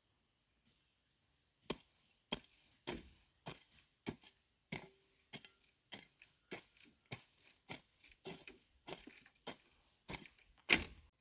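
Repeated sharp strikes of a tool on wood, like chopping or hammering, in a steady rhythm of a little under two a second. They start about two seconds in, and the last strike is the loudest.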